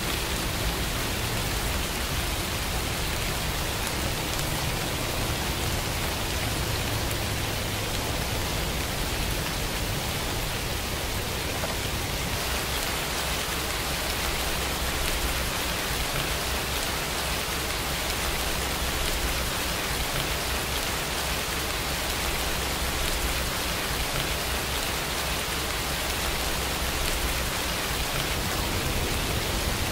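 Steady rain falling: a constant, even hiss of many drops with a low rumble underneath.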